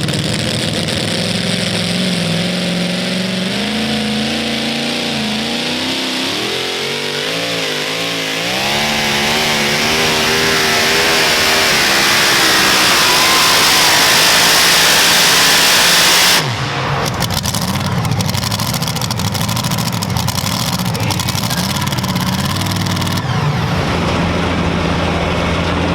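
Super modified two-wheel-drive pulling truck engine at full throttle during a pull, its pitch climbing and wavering and growing steadily louder, then cutting off sharply about sixteen seconds in, after which the engine keeps running lower and steadier.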